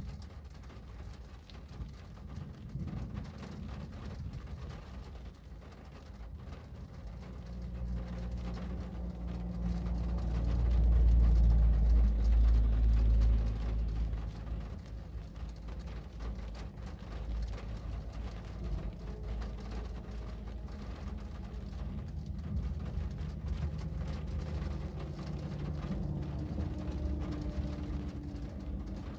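Low engine rumble of a passing motor vehicle, swelling to its loudest a little before the middle and then easing to a steady low hum.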